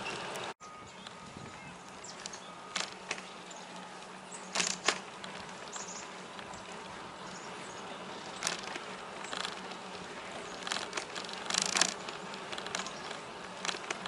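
Bicycle in motion on a trail: a steady buzzing ride noise with irregular sharp clicks and rattles scattered throughout.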